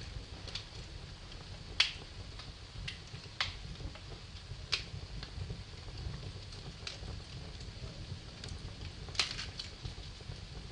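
Wood fire in a fireplace crackling, with sharp pops at irregular moments, the loudest about two seconds in and near the end, over a steady low rumble.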